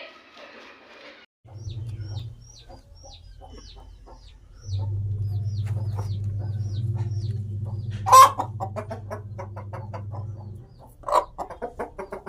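Aseel (parrot-beak) cock clucking: a loud squawk about eight seconds in, then a quick run of clucks near the end. Under it runs a steady low hum and a string of thin, high peeps that fall in pitch.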